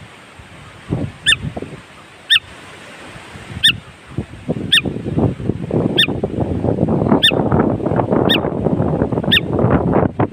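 A bird repeating a short, high, sharply falling call about once a second. Under it is a busy jumble of lower chattering and clatter that swells from about four seconds in.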